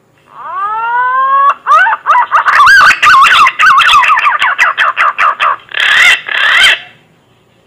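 Punai (green pigeon) song: a rising whistle lasting about a second, then a fast run of warbling, pitch-bending whistled notes, ending with two rougher notes around six seconds in.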